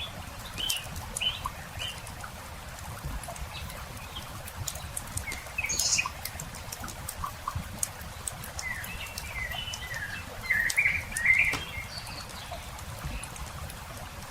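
Campfire crackling with scattered sharp pops, while small birds chirp and twitter in short bursts, busiest about nine to eleven seconds in.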